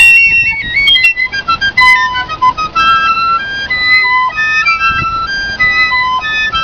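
Piccolo music: high, clear held notes stepping up and down, opening with a quick trill between two notes.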